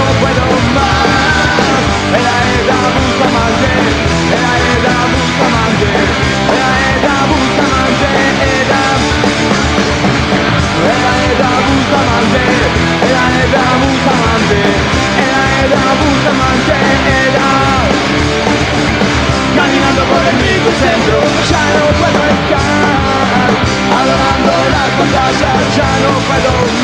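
Punk rock band playing live and loud: an instrumental passage of electric guitars, bass and drums with no lead vocal.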